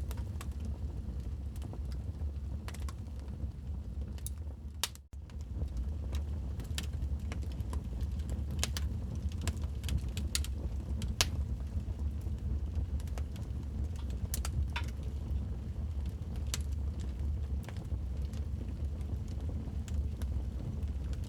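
Wood fire in a fireplace crackling, with irregular sharp pops and snaps over a steady low rumble. The sound drops out for a moment about five seconds in.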